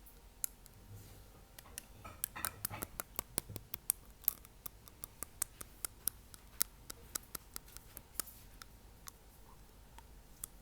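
Fingernail tapping on teeth: sharp, irregular clicks at about two to three a second, with a quicker run of taps and a soft rush of air about two seconds in.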